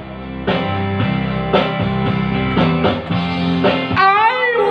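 Instrumental music: guitar strumming chords in the break between sung lines of a rock song, with a bending melody line coming in near the end.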